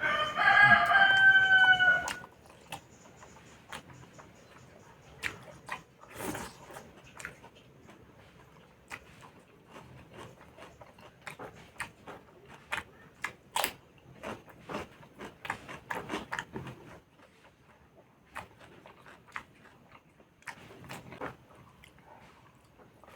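A rooster crows once, loud, for about two seconds at the start. After that come scattered sharp clicks and smacks of eating and chewing.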